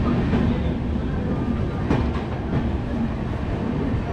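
Steady rumble of a passenger train running along a platform, heard at the open doorway of a sleeper coach, with faint ticks of the wheels.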